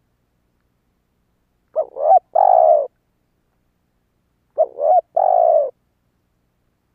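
Spotted dove cooing: two phrases about three seconds apart, each a quick double note followed by a longer held coo.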